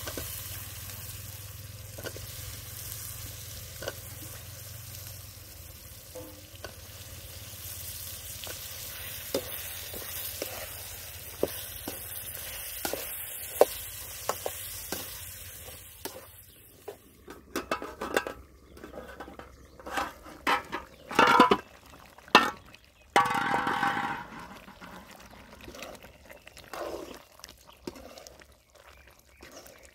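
Spiny brinjal pieces sizzling in oily tomato masala in a metal kadai, with the metal ladle clicking against the pan as it is stirred. About halfway through the sizzling dies away and the ladle clatters and scrapes more loudly, with a short splash, as water goes into the pan for the gravy.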